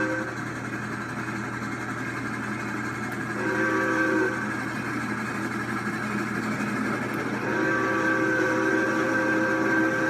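Steam locomotive whistle blowing a chord of several notes: a blast cutting off at the very start, a short blast about four seconds in, and a long blast from about seven and a half seconds on, over the steady rumble of the train.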